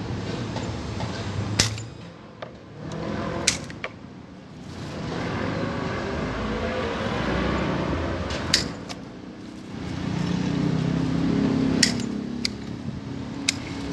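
Shears snipping through yellow ixora stems, about six sharp cuts at irregular intervals, over a steady background rumble that rises and falls.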